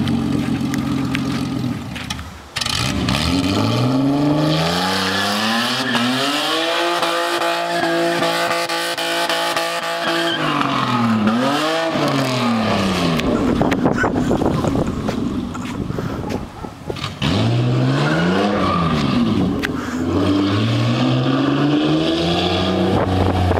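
Straight-piped BMW engine revving hard during a burnout: the revs climb over a few seconds and hold high with tyre squeal, fall away, then come a few quick blips and a second climb near the end.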